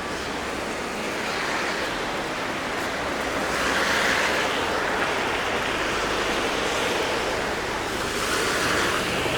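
Street traffic on a wet, slushy road: the tyre hiss of passing cars swells and fades, loudest about four seconds in and again near the end, over a steady low rumble.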